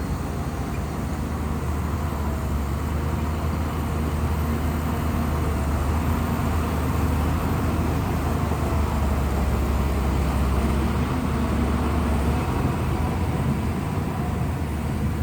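Shantui bulldozer's diesel engine running steadily with a deep drone, which drops away about twelve seconds in while the engine keeps running.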